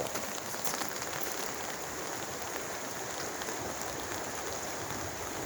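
Steady patter of rain, with faint scattered drop ticks.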